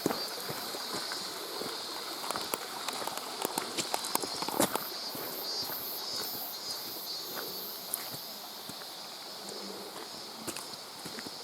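Hiking footsteps on a wet, rocky stream-bed trail, with irregular clicks and taps, over a steady high-pitched drone from the surroundings.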